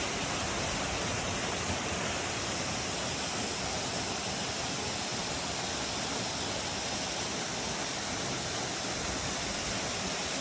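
Waterfall pouring and splashing: a steady, even rush of water.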